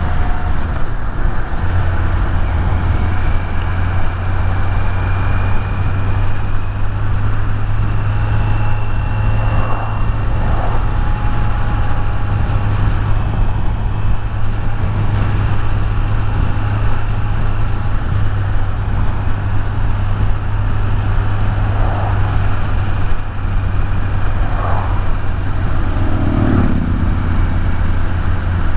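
Kawasaki Z900's inline-four engine running at a steady cruise on the move, with steady wind and road noise.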